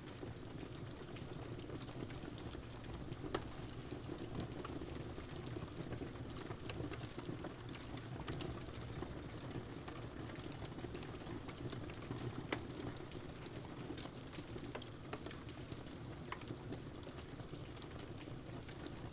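Steady rain together with the scattered sharp crackles and pops of a wood fire, one louder pop a few seconds in and another past the middle.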